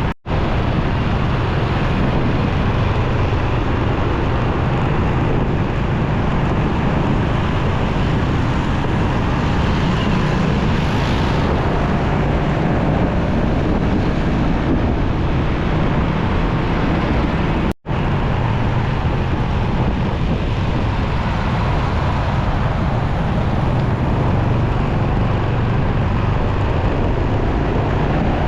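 Motorcycle riding in traffic: its engine running steadily under wind rush on the microphone. The sound drops out for an instant twice, just after the start and about two-thirds of the way through.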